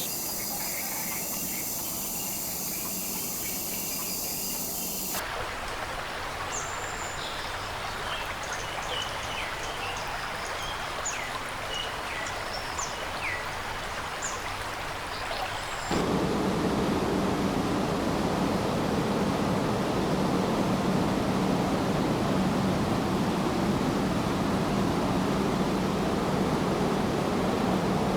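Rainforest ambience edited in three parts. First a steady high insect drone over a hiss. About five seconds in it cuts to short bird chirps over a steady hiss. About sixteen seconds in it cuts to a louder, even rush of running water.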